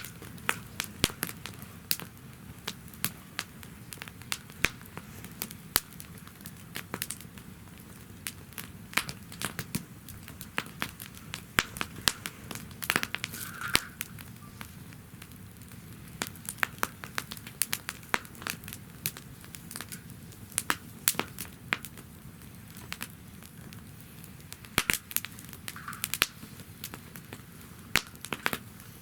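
Wood fire burning in a fire stand, crackling with frequent irregular sharp pops over a low steady rumble.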